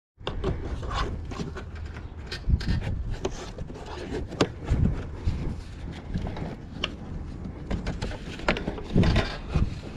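Rummaging through discarded items: irregular knocks, clacks and scraping, louder in a few clusters, over a low rumble.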